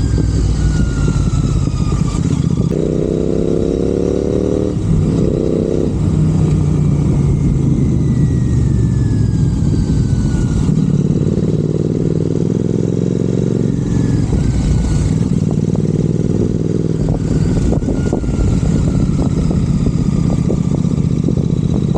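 Royal Enfield Continental GT 650 parallel-twin engine through aftermarket Red Rooster exhausts, riding and accelerating: the pitch climbs, drops at a gear change and climbs again several times.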